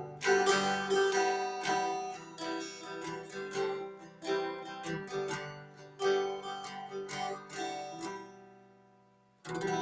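Acoustic guitar music, strummed chords that fade out about eight seconds in, with one last strum near the end.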